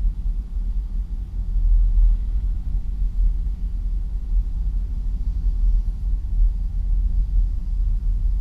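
Low, steady rumble of a pickup truck on the move, engine and road noise heard from the dashboard inside the cab.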